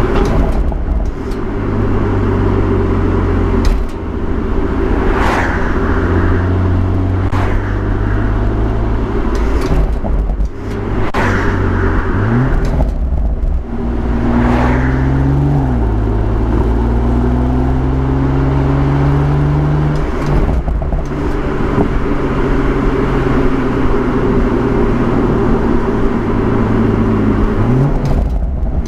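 BMW M140i's 3.0-litre turbocharged straight-six running hard on the road. Its pitch climbs with the revs and drops suddenly at each gear change, twice in the middle, with a quick rise again near the end. Short sharp cracks come now and then.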